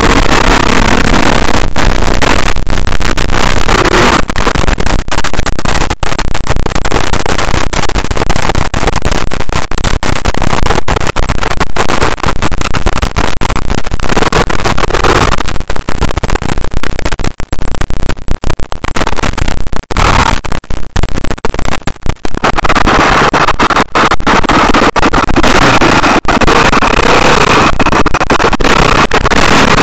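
KTM off-road motorcycle engine and rushing noise, loud and distorted through an on-board camera's microphone, with choppy dropouts in the middle.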